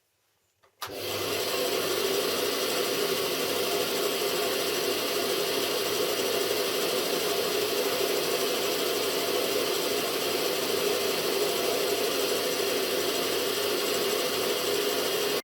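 Homemade metal-cutting band saw running, a steady rasping machine noise that starts suddenly about a second in and holds level.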